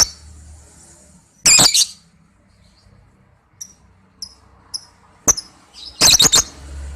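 Lovebird giving shrill, chattering calls in short bursts: one at the start, another about one and a half seconds in, three short chirps around the middle, then a sharp call and a quick run of calls near the end.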